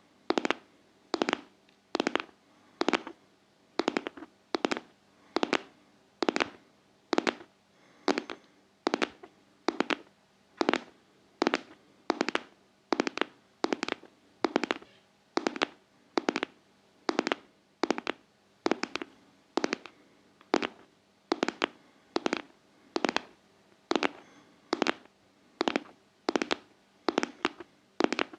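Steady rhythmic ASMR tapping, a little more than one sharp tap a second, each with a short decay.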